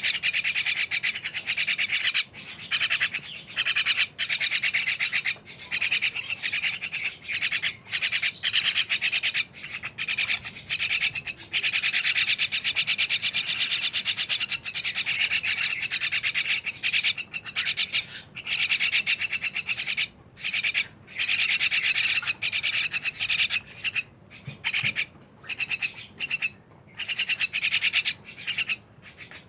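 Javan mynas (jalak kebon) chattering, a harsh, rasping, rapid run of calls. It comes in long phrases broken by brief pauses.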